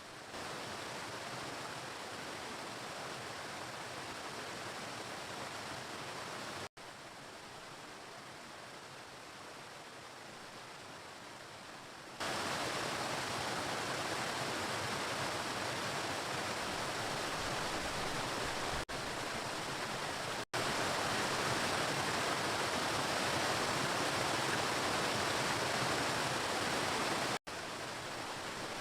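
Waterfall water rushing as a steady hiss, with the level jumping suddenly louder or quieter several times where separate recordings are cut together.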